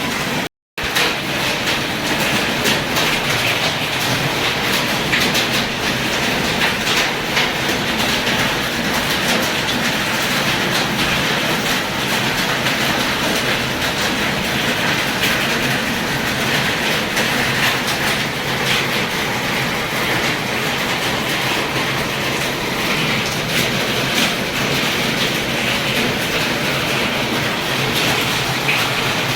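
Hail falling with rain: a steady, dense clatter of many small ticks over a rushing hiss. The sound drops out for a moment just after the start.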